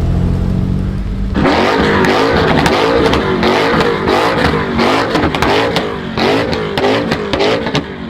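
A car engine running steadily, then revved hard from about a second and a half in, its pitch rising and falling over and over.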